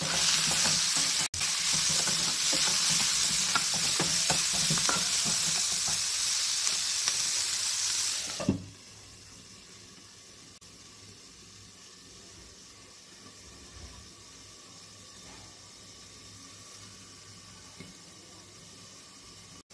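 Onions and capsicum frying on high flame in a frying pan, sizzling loudly while a metal spatula scrapes and taps them around. About eight seconds in, a glass lid knocks down onto the pan and the sizzle drops to a faint, muffled hiss.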